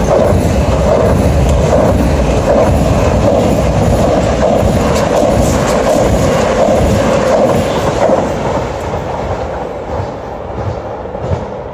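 Electric passenger train passing close by, a loud steady rumble of wheels on rails that dies down as the train draws away near the end.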